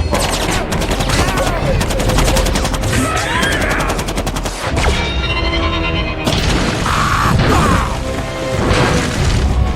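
Film battle sound effects: rapid fire of about ten shots a second from the robots' weapons, with metallic impacts and booms, mixed over the orchestral score.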